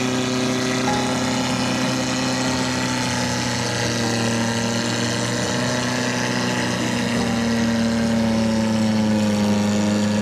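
A 4x4 off-road vehicle's engine running at steady revs, the pitch sagging slightly and then climbing a little near the end.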